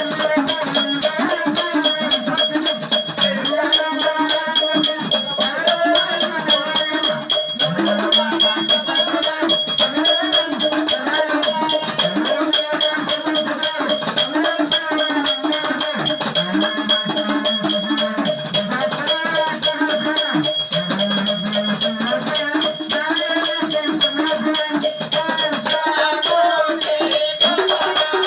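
Marathi devotional aarti song: a singing voice over a steady held drone, with continuous shaken, rattling percussion keeping an even beat.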